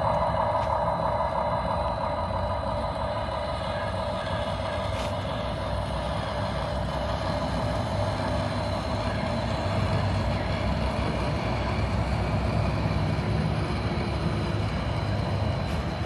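Mini RC truck running steadily: a truck-like engine hum over a low rumble, with a higher whine that fades over the first few seconds.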